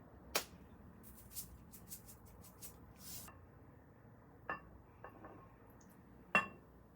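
Dishes and cutlery clinking: a few sharp clinks with lighter ticks in between, the loudest clink near the end.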